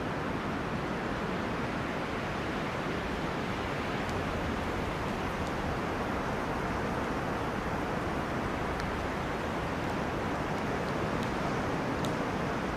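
Wind rushing steadily through forest trees, an even noise without gusts or lulls, with a few faint brief ticks.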